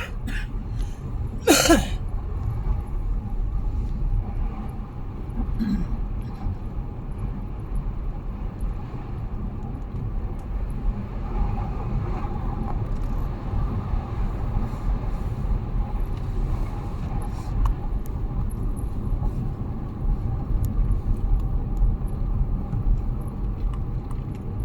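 Car driving, heard from inside the cabin: a steady low rumble of engine and road noise, with a brief sharp sound about two seconds in.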